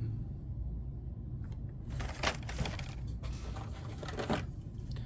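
Hot Wheels blister-card packages and their cardboard case being handled: plastic and card crinkling and scraping in several short bursts from about two seconds in, over a low steady hum.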